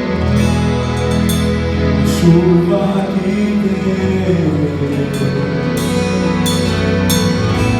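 Gospel band playing a slow song: sustained keyboard and guitar notes over a steady bass and drums, with cymbal hits ringing out every second or so.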